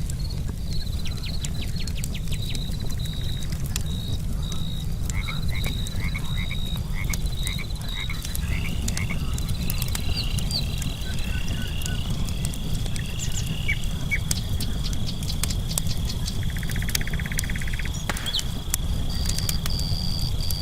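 Frogs croaking in a chorus of short repeated calls, with crickets trilling steadily in the background. Sharp pops from a crackling wood campfire come through now and then, over a low steady rumble.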